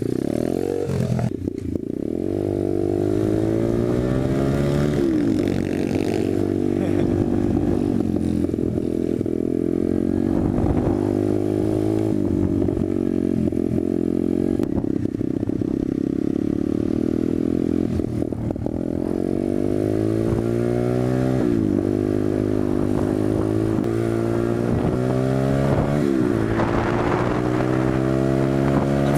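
SSR125TR 125cc single-cylinder four-stroke pit bike engine running under way. It revs up repeatedly, and its pitch drops back each time as the rider shifts up through the gears.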